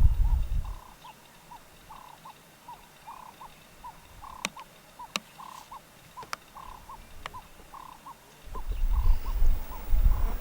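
A small animal calling in short, evenly repeated chirps, about three a second, with a few sharp clicks about halfway through. A low rumble is heard at the start and again from about eight seconds in.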